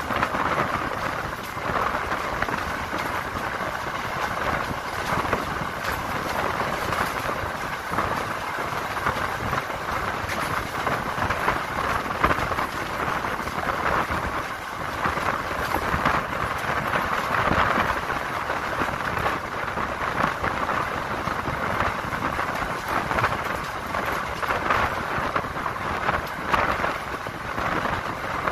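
Passenger train running at speed, heard from on board: a steady rushing rumble of wheels on the track and air moving past, swelling and easing slightly.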